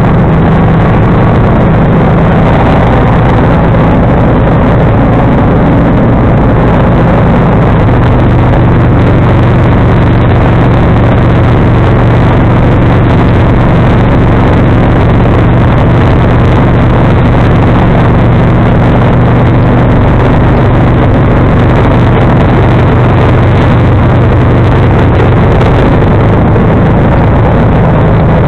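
John Deere 445 lawn tractor's V-twin engine running steadily at a loud, close level, its pitch dropping slightly about eight seconds in.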